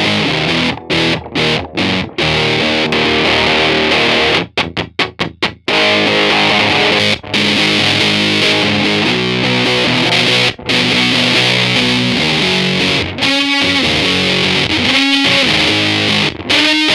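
Electric guitar played through a Big Muff–style fuzz pedal with its gain at twelve o'clock: thick, heavily distorted chords. There is a quick run of short choppy stabs about five seconds in, and wavering held notes with vibrato near the end.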